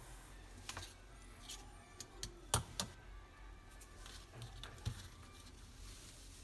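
Scattered light clicks and taps, with one sharper click about two and a half seconds in, over a steady low hum.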